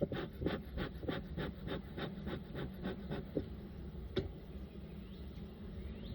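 Bee smoker's bellows being pumped quickly, a rapid run of short puffs of air at about five a second, then a couple of single puffs about a second later.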